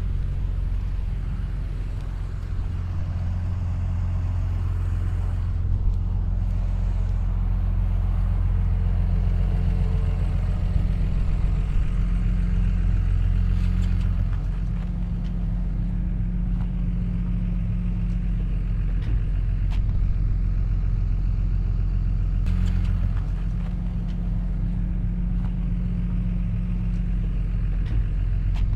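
Diesel engine of heavy earthmoving equipment running with a steady deep drone; its pitch and level shift a few times.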